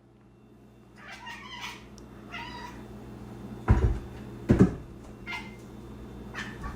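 A domestic cat meowing several times in short calls. Two loud thumps land a little under a second apart about halfway through.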